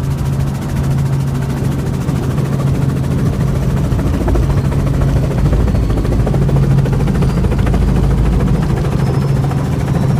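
Helicopter running, a steady loud drone with a rapid, even chopping beat from the rotor blades.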